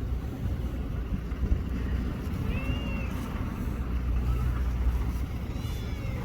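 A cat meows twice, short and high: a rising-then-falling call about two and a half seconds in and a fainter one near the end. Both sit over a steady low rumble.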